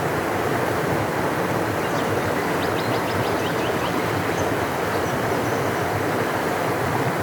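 Large river rushing steadily, a deep, even roar of water with no change in level. A brief faint series of rapid high chirps sits above it about two to three seconds in.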